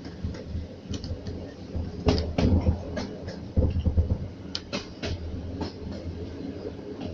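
Train moving off, its wheels knocking irregularly over rail joints, with a steady low rumble underneath.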